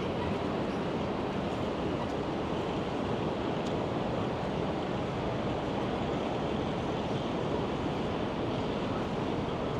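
Steady outdoor ambience: an even rushing noise with no single sound standing out.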